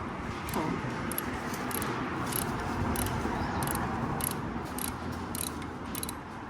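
Ratchet wrench clicking, roughly two clicks a second, as a bolt is worked loose on a Kawasaki W800 motorcycle to fit an engine guard.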